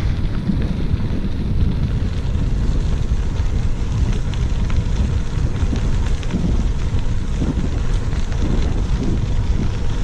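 Wind rushing and buffeting on the microphone of a camera riding along on a moving bicycle. It is a steady, loud low rumble, mixed with faint tyre noise on the trail.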